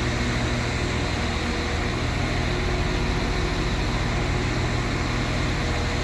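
Northern Ireland Railways diesel multiple unit running steadily at the platform, a constant low engine hum under a broad even noise.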